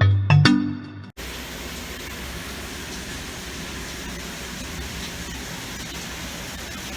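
Steady, even hiss of falling rain, starting abruptly about a second in after the last few notes of background music.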